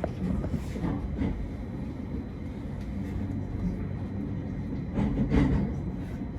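Train running on the rails, a steady low rumble with a few light clicks and a brief louder swell about five seconds in.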